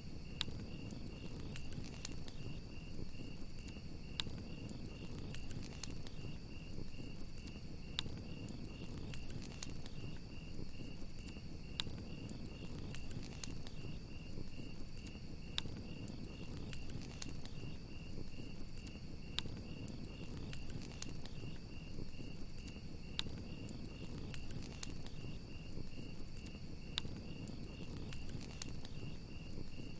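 Campfire crackling, with sharp pops every second or so over a low rush of burning wood, and crickets chirping in a steady pulsing trill.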